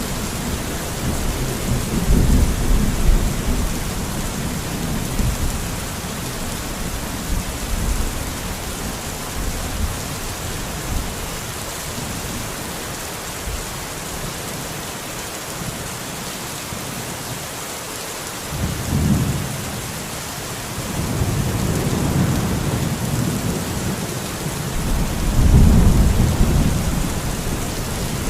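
Steady rain hissing in a thunderstorm, with low rolling thunder rumbles: one at the start, a short one about two-thirds of the way in, then longer ones building to the loudest near the end.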